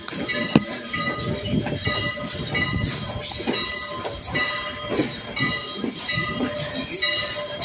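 Passenger train rolling, heard from aboard a coach: irregular knocks and clacks of the wheels over the rail joints and the car rattling over a steady rumble.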